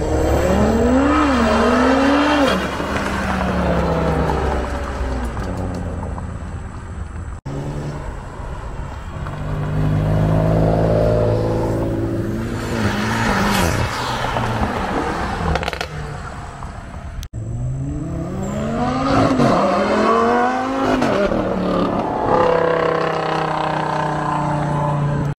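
High-performance car engines accelerating hard, pitch climbing and dropping back at each gear change, in three separate passes broken by sudden cuts about a third and two thirds of the way through.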